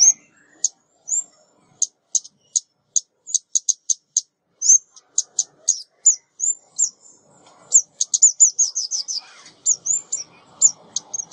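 Female ốc mít, a small songbird, giving sharp, very high chip calls, used as a trapping lure call. The chips come in quick, irregular series, some with a short downward slur, and run together in a fast burst of about a dozen around the eight-second mark.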